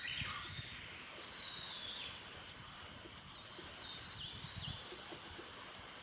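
Wild birds singing over steady outdoor background noise: a clear whistled note sliding down in pitch about a second in, then a quick run of rising-and-falling notes past the three-second mark.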